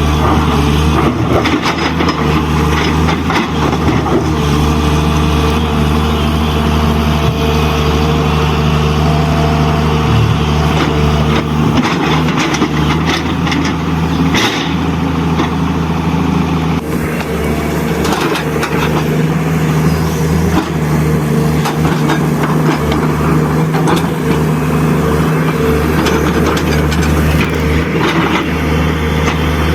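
Steady diesel truck engine sound, as played by an RC truck's engine sound simulator, running evenly with a deep hum; its upper tone changes slightly about halfway through.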